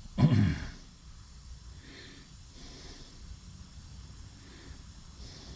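A person's short, loud snort about a quarter second in, followed by soft breathing.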